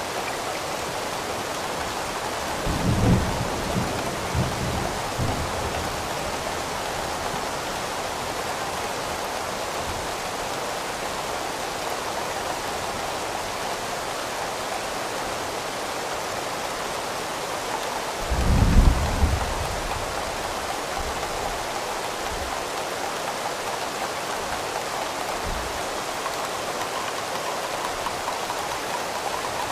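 Steady rain hiss with two low rolls of thunder, one about three seconds in that rumbles on for a couple of seconds, and a louder one about eighteen seconds in.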